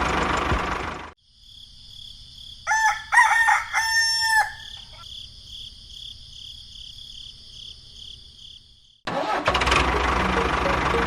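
A rooster crows once, a few seconds in: a broken call that ends in one longer held note falling at the end. It sits over a steady high-pitched shrill drone. Loud, steady machine noise cuts off about a second in and comes back near the end.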